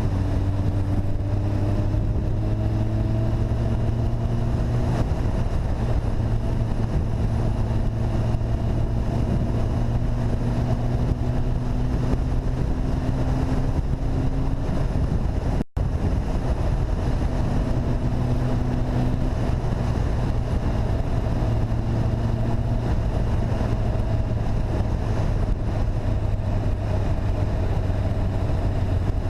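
Vehicle engine running steadily while riding, with wind noise on the microphone and slow small changes in engine pitch. The sound drops out for an instant about halfway through.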